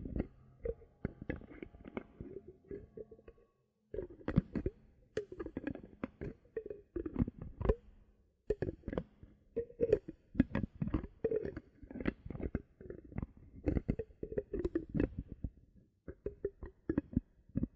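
Bottle caps handled close to the microphone: quick runs of taps and clicks with a short hollow ring. They pause briefly twice, near 4 s and 8 s.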